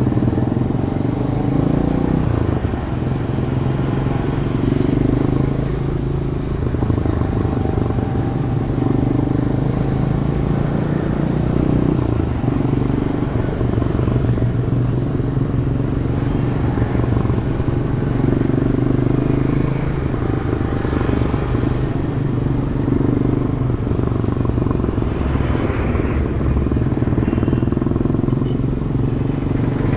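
Demak DTM 150 motorcycle engine with its stock exhaust, running under way in traffic, its note rising and falling as the rider speeds up and eases off, over road and traffic noise.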